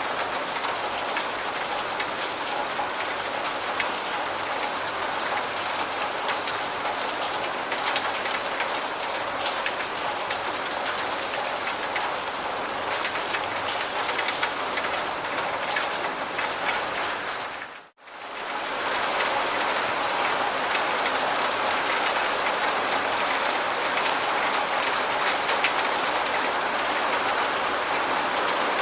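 Steady heavy rain falling, a dense hiss of many individual drops ticking on a surface. About two-thirds of the way through it fades briefly to silence and then fades back in.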